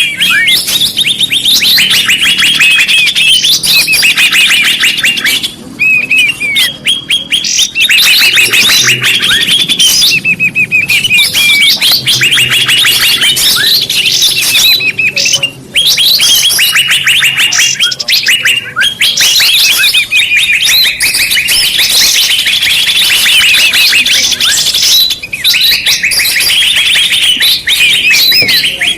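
Bird-lure recording: loud, dense chirping and rapid trills of small songbirds, many calls overlapping, with only a couple of brief breaks.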